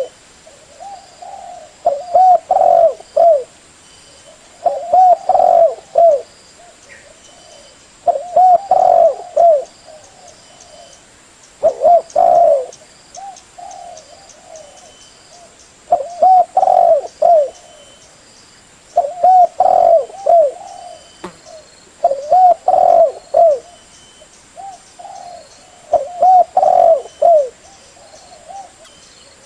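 Spotted dove (tekukur) cooing: about eight phrases of short rolling coos, one every three to four seconds.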